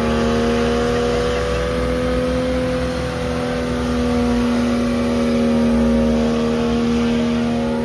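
Truck engine held at high, steady revs, its pitch rising slightly about two seconds in and easing back down.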